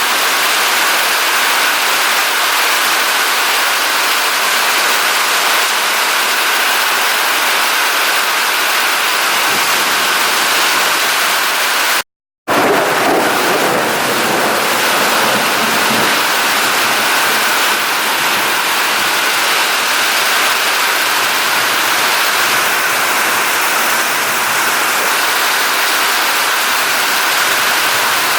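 Heavy tropical-storm downpour: rain falling in a loud, steady rush, broken by a brief dropout about twelve seconds in.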